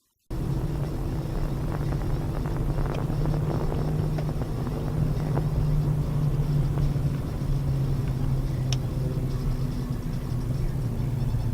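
A car driving, heard through a dashcam: a steady low engine hum with road noise, cutting in suddenly just after the start, with a few faint clicks.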